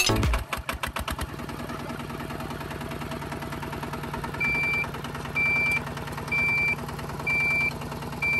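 Small motor of a DIY mini tractor running steadily with a fast, even rattle. From about halfway a high electronic beep sounds five times, roughly once a second, like a reversing alarm.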